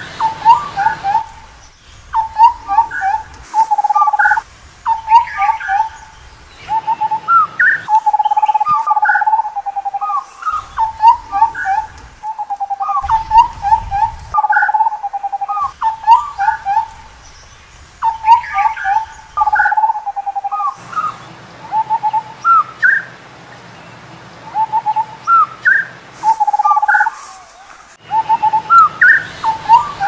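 Indian scimitar babbler calling in repeated phrases of fluty whistles. Each phrase mixes level notes with short notes that rise in pitch, and short pauses fall between phrases.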